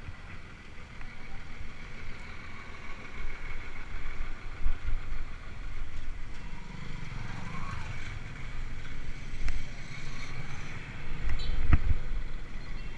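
Wind buffeting the microphone and rolling noise while riding a mountain bike, with a sharp knock near the end.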